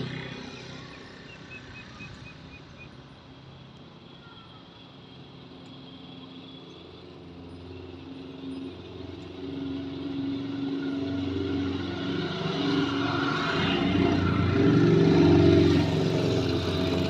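A motor vehicle's engine running steadily and growing louder over the second half, as if coming closer, with a few faint bird chirps near the start.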